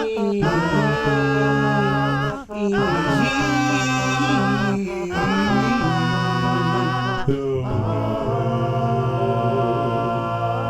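A cappella vocal harmonies: several layered voices holding sustained chords that change every two to three seconds, with brief breaks between them.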